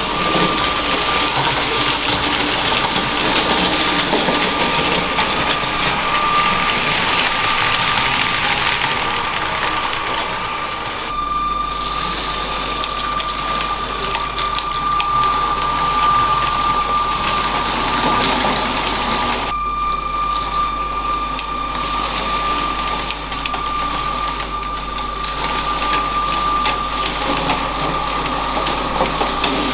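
LEGO train's small electric motor running with a steady whine, its plastic wheels rattling along the track; the rattle grows and fades a few times as the train moves.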